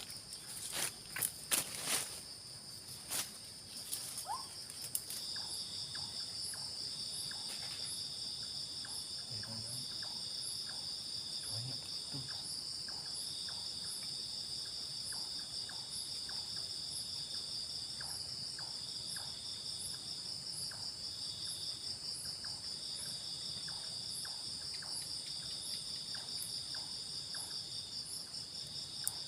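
Chorus of forest insects: a steady high-pitched buzz with a lower trill that pulses on and off in stretches. In the first few seconds a handful of sharp knocks and clatters sound over it.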